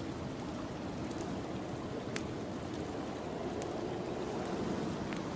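Wood fire crackling in a fireplace, scattered sharp pops over a steady rushing noise of snowstorm wind.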